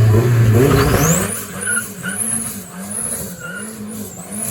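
A car in a burnout, its engine running hard at first and then revved up and down over and over, with a high whine that rises and falls with the revs. It is loudest in the first second, then drops somewhat.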